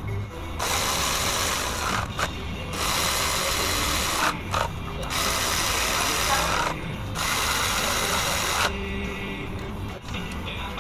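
Handheld power tool run in four bursts of about a second and a half each, with short pauses between.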